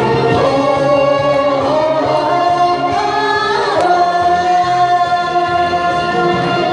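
A Korean trot song sung live over instrumental accompaniment. The voice holds a long, steady note from about four seconds in.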